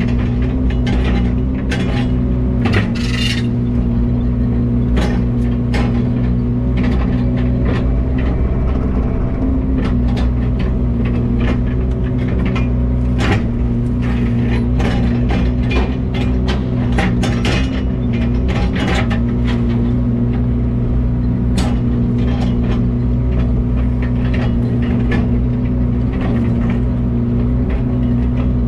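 Engine of a piece of heavy equipment or truck running steadily at an unchanging speed, with frequent loose rattles and clicks over the drone.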